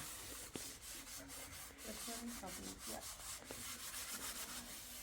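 Scratchy rubbing or scraping strokes repeated a few times a second.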